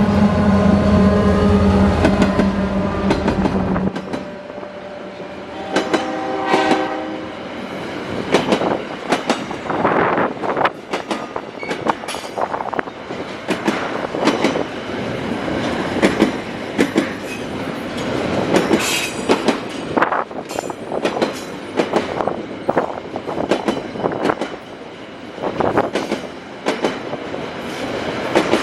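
A diesel freight train passing close: the locomotive's engine drone is loud for the first few seconds, then drops away. The horn sounds about six seconds in, and after that the container wagons clatter over the rail joints with repeated wheel knocks and a few brief squeals.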